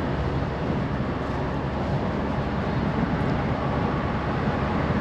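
Steady engine and road noise heard inside the cab of a delivery truck while it is being driven.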